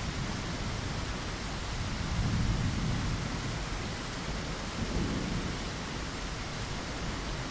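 Steady rain hissing, with low thunder rumbling under it that swells about two seconds in and again around five seconds.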